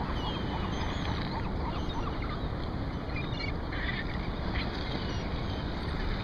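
Steady wash of sea water and wind around a kayak, with faint short bird calls scattered through it.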